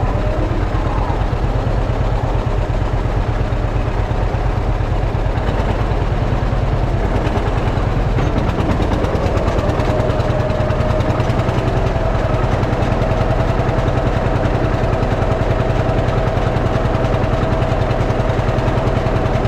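Antique farm tractor engine running hard under load, pulling the weight sled down the track. A steady whine joins in about halfway through.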